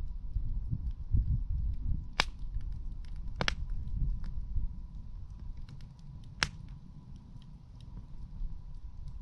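Wood campfire crackling, with small ticks throughout and three loud sharp pops, over a low rumble.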